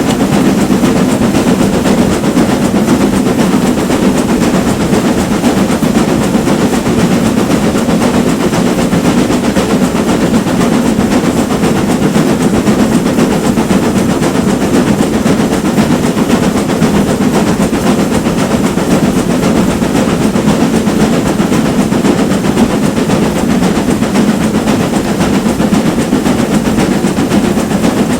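Steam-hauled train running on the rails: a loud, steady rumble that keeps up without a break.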